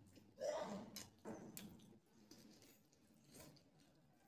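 Close-up mouth sounds of a man biting into and chewing a curry-covered chicken drumstick: two short, wet bites or smacks about half a second and a second and a quarter in, then faint chewing.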